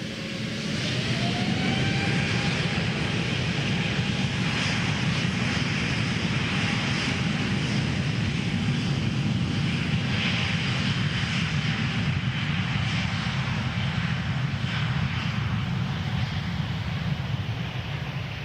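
Twin-engine jet airliner's engines spooling up, a whine rising in pitch over the first couple of seconds, then running loud and steady at high power.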